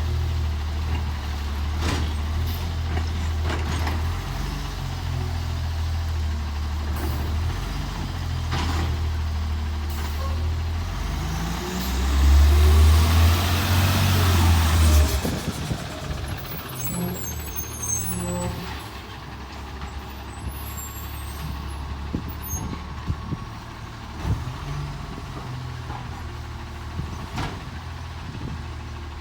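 Autocar ACX garbage truck with a McNeilus AutoReach automated side-loading arm working a pickup. Its diesel engine runs with steady high revs, and there are scattered clanks. About twelve seconds in comes a louder stretch with a rushing hiss that lasts a few seconds, then the engine settles to a lower, quieter idle.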